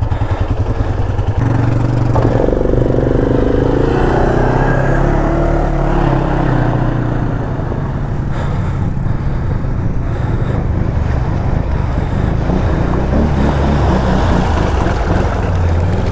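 ATV engine running under load and revving, as one quad tows another up out of a creek on a strap. It steps up in level about a second and a half in, and its pitch shifts as the pull goes on.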